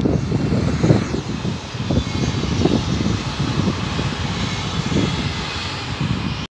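Electric multiple-unit passenger train passing by: a steady rumble of wheels on rail with a faint high whine, over wind buffeting the microphone. The sound cuts off suddenly at the end.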